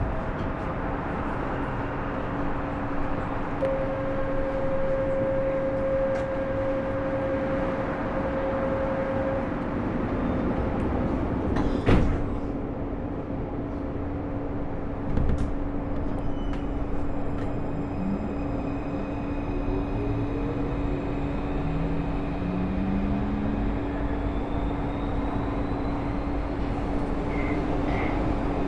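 Alstom AS-02 metro train heard from inside the car: steady running noise with a constant hum, two sharp knocks about twelve and fifteen seconds in, then a rising electric traction-motor whine in the second half.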